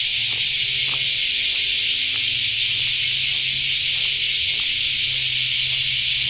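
Steady outdoor ambience: a loud, even high hiss over a low steady hum, with faint light ticks about every half second, in step with walking footsteps.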